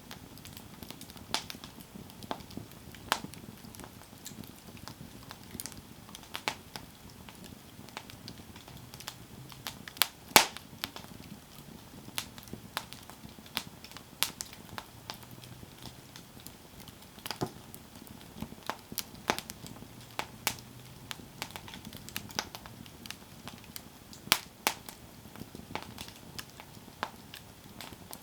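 Campfire crackling: irregular sharp pops and snaps from the burning wood over a low steady hiss, with one louder pop about ten seconds in.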